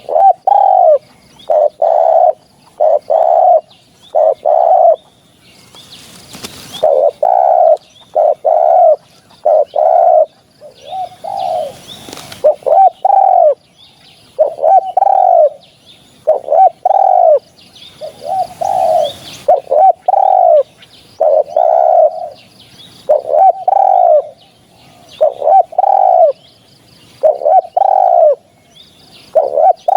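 Spotted dove cooing over and over in short phrases of about three notes, a phrase every two seconds or so, as used for a dove-hunting lure call. Faint chirps of other birds sound higher up between the phrases.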